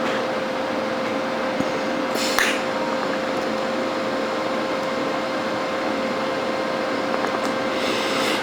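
TIG welding on stainless steel: a steady arc hiss with a constant hum, broken by a brief crackle about two and a half seconds in.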